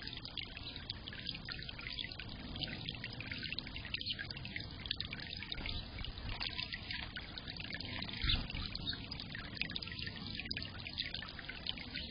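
Water trickling and splashing steadily into a bird bath.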